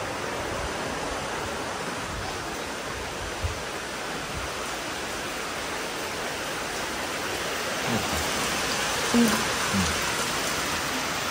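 Steady rain falling, an even hiss with no let-up, with a faint knock about three and a half seconds in and brief faint voices near the end.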